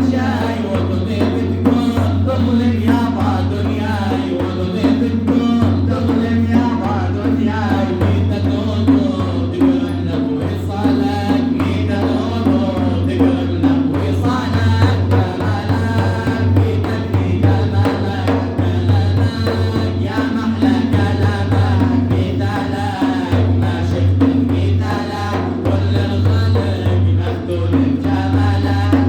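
Arabic Sufi praise song (madih): a voice singing a wavering melodic line over a steady low drone, with continuous drum accompaniment.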